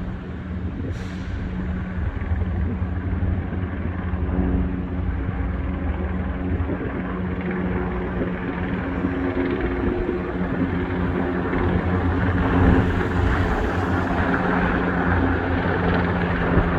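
Steady road-traffic noise: several vehicle engines running with a low, steady hum.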